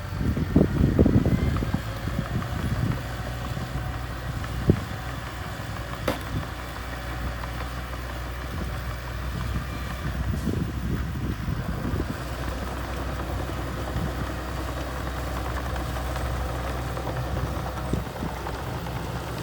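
Small bulldozer's diesel engine running steadily, louder for the first couple of seconds, with a sharp knock about five seconds in.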